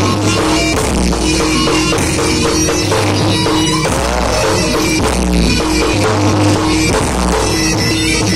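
Loud live music for a reog performance: drums keeping a steady beat under sustained held melodic tones.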